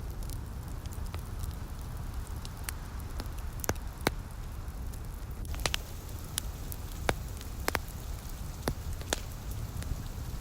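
Wood fire crackling, with a dozen or so sharp, irregular pops over a steady low rumble, and a faint hiss of light rain behind it.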